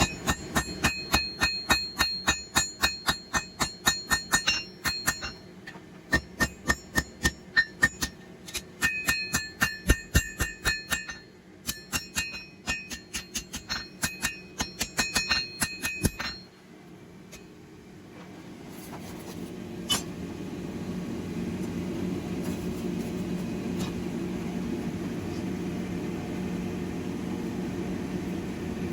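Hand hammer striking hot high-carbon steel on an anvil, about four ringing blows a second in three runs with short pauses, stopping about sixteen seconds in. After that a steady low hum grows louder, with one more single ring.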